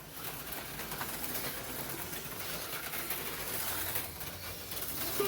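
HO-scale slot cars running laps on a plastic track: the steady whir of their small electric motors, with the light rattle of the cars on the track.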